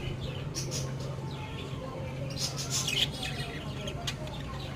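Budgerigars chirping in short, scratchy clusters, about half a second in and again from about two and a half to three seconds, over a steady low hum.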